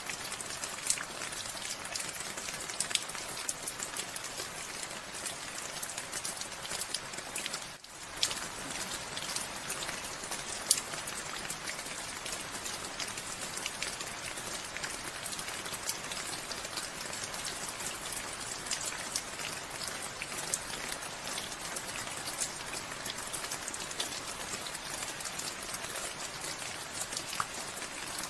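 Steady rain falling, with many individual drops tapping distinctly over the even hiss. The sound briefly dips about eight seconds in, then carries on unchanged.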